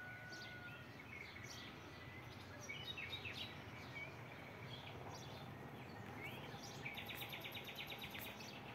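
Small birds chirping intermittently over faint outdoor background noise, with a fast trill of about ten notes a second near the end.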